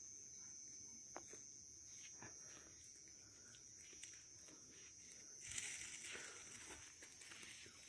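Mostly near silence with a faint steady high insect-like tone; about five and a half seconds in, a firework rocket's lit fuse starts to fizz faintly, with a few small crackles, just before the rocket goes off.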